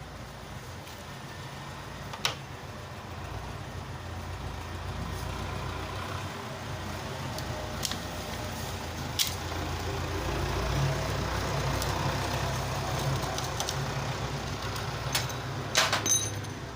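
Steady low rumble of motor traffic that swells and eases, with a few sharp clicks and knocks scattered through it, the loudest cluster near the end.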